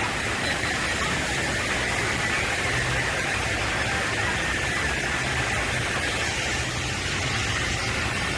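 Steady, even rushing of water running down a water-park slide.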